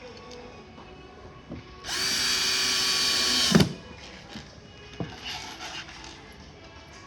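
Power drill running for about a second and a half, its motor quickly coming up to speed, as it drives a screw into a bed frame panel. It ends in a sharp knock as it stops. A few lighter knocks of handling come before and after.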